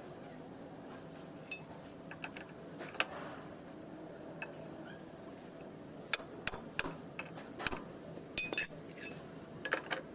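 Sporadic metallic clinks and taps of tools and parts being handled during seal work on a JCB 3DX hydraulic cylinder, over a faint steady hum. A few single knocks come in the first three seconds, and they grow more frequent in the second half.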